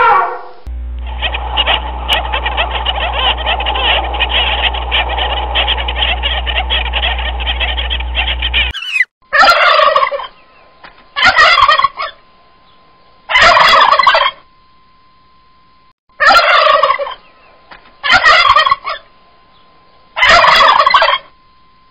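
For about the first eight seconds there is a dense, steady noise with a low hum under it. It stops abruptly, and then a bird's rapid, pulsing call sounds six times, each about a second long and two to three seconds apart, with a faint steady tone between the calls.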